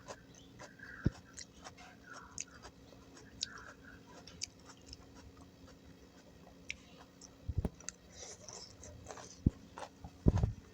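Close-miked chewing of gado-gado vegetables in peanut sauce: wet mouth sounds with many short, crisp clicks, and a few heavier low knocks about seven and ten seconds in.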